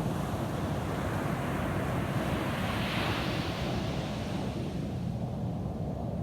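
Ocean surf breaking on a beach: a wash of hiss that builds to a peak about three seconds in and then fades, over a steady low rumble.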